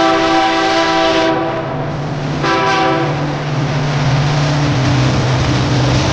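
Diesel locomotive air horn sounding a chord that cuts off about a second in, then one short blast, followed by the steady low drone and rumble of the train.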